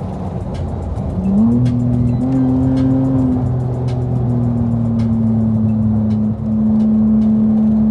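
Infiniti G35's 3.5-litre V6 engine and loud exhaust while driving. The engine pitch climbs about a second in as it accelerates, settles, dips briefly just after six seconds, then holds a steady cruise.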